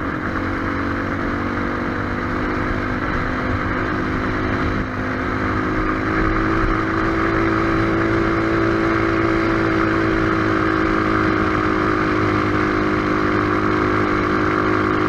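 Single-cylinder trail motorcycle engine running steadily under way, the pitch climbing a little a few seconds in, with a steady rush of wind and road noise.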